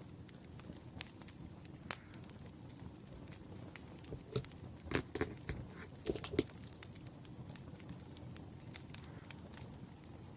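Wood fire burning with a low steady rumble and scattered sharp crackles, and a louder cluster of pops and cracks about halfway through.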